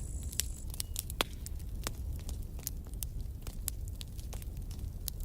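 Campfire burning with a low steady rumble and scattered crackles and sharp pops of burning wood, a couple of louder pops about half a second and a second in.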